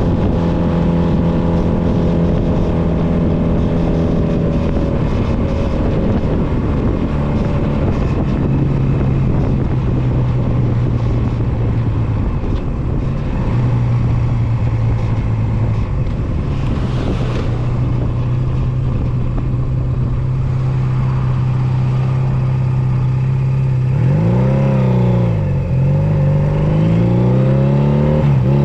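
Honda CB250 Nighthawk's air-cooled parallel-twin engine, heard from on the bike, running at a steady note that drops to a lower steady note about five seconds in. Near the end the engine pitch swings up and down several times as it revs and eases off, with a steady rush of wind and road noise underneath.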